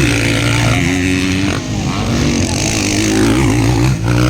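Motocross dirt bike engines racing, their pitch rising and falling as the riders rev through the corners and gears, with a brief drop in revs twice.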